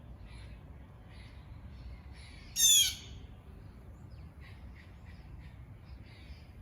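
Birds calling: short chirps keep coming throughout, and one much louder call of about half a second sounds about two and a half seconds in.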